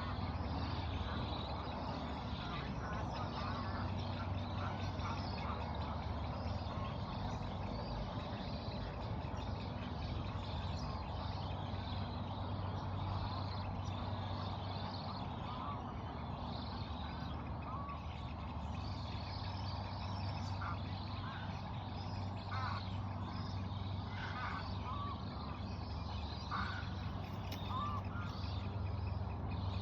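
Birds calling over a steady low background hum, with short calls scattered throughout and coming more often in the second half.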